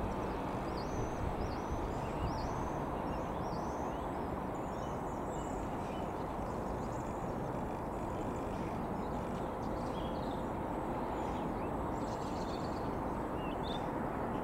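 Steady low rumble of an Irish Rail 22000 Class diesel multiple unit slowly approaching, with birds chirping high above it.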